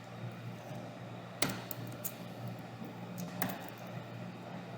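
A few sparse computer keyboard keystrokes, the loudest about a second and a half in and another near three and a half seconds, over a steady low hum.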